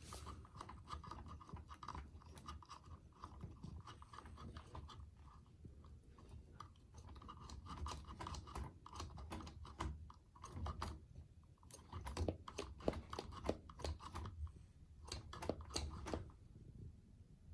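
Faint handling noises of a small RC nitro engine: scattered light clicks and rubbing as its freed carburetor throttle is worked by hand, busier in the second half.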